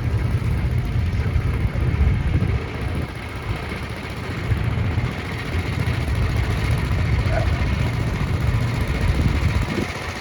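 1949 John Deere Model M tractor's two-cylinder engine running as it drives past, a low, rapidly pulsing engine sound.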